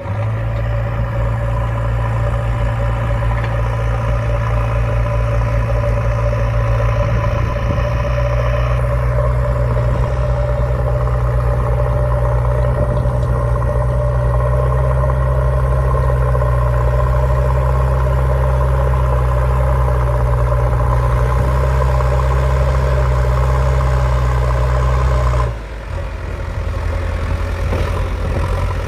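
Engine running steadily with a low, even hum. About 25 seconds in the sound dips and changes, settling at a lower pitch.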